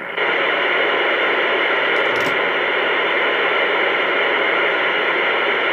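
Loud, steady hiss of static on a telephone line, cut off above the voice band like the speech around it. It switches on abruptly at the start.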